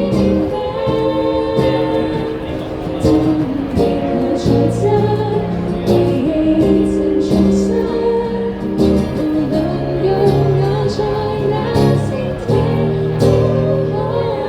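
A band playing live with singing over sustained chords, with short percussive strikes through it.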